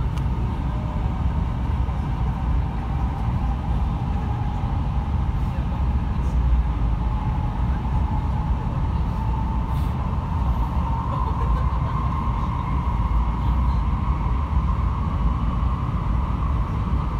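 Cabin noise of a 700 Series Rail Star shinkansen running through a tunnel: a steady deep rumble with a faint whining tone that drifts slightly in pitch.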